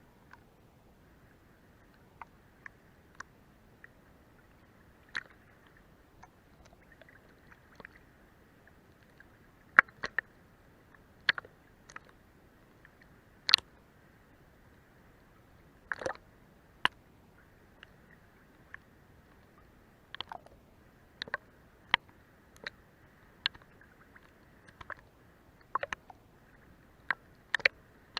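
Sea water lapping and slapping under a boat's hull: a faint steady wash with many sharp, irregular slaps and clicks, some of them loud.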